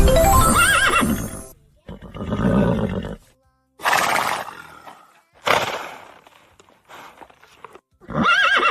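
Horse neighing, a recorded sound-effect call played about five times with short gaps between; the first and last calls whinny with a wavering high pitch.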